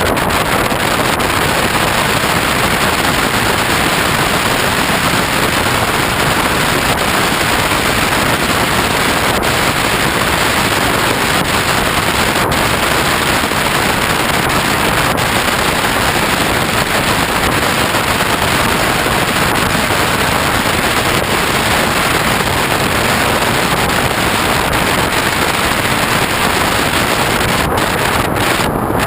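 Steady, loud wind rush over a GoPro camera mounted on the wing of a foam RC plane in flight.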